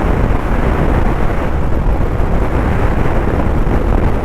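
Suzuki motorcycle riding at steady speed: a continuous deep rumble of wind rushing over the microphone mixed with engine and road noise.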